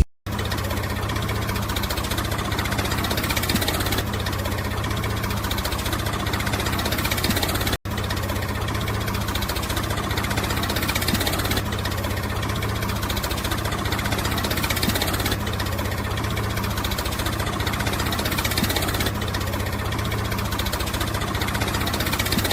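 A small motor running steadily with a rapid, even pulsing, broken by a momentary dropout about eight seconds in.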